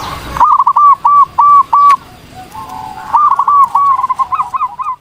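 Zebra dove (perkutut) singing: a run of clear repeated cooing notes starting abruptly about half a second in, then after a short gap a second phrase of quicker, trilling notes from about three seconds in.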